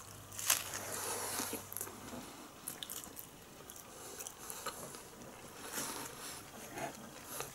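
A person biting into a soft tortilla wrap filled with pork and lettuce, one sharp bite about half a second in, then quiet chewing with the mouth close to the microphone.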